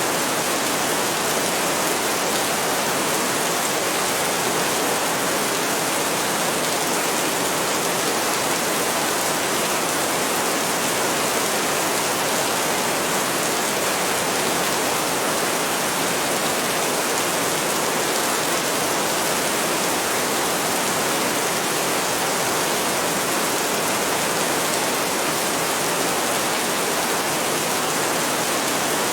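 Heavy rain falling in a steady, even hiss with no thunder claps.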